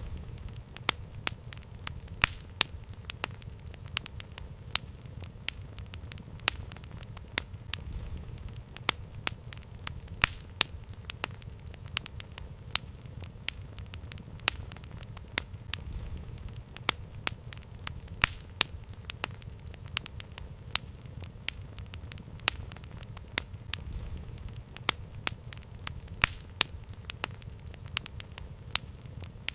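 Campfire burning, with frequent irregular sharp crackles and pops over a low steady rumble of the flames.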